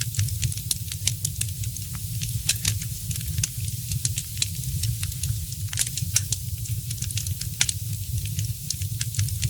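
Fire burning in a fireplace, crackling with many quick, irregular pops and snaps over a steady low rumble.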